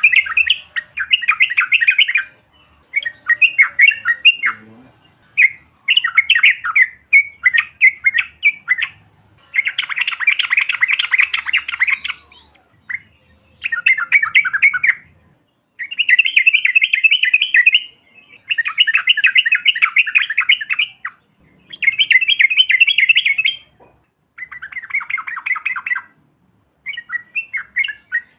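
Yellow-vented bulbul (trucukan) song: loud, bubbling, chattering phrases about two seconds long, repeated one after another with short pauses between.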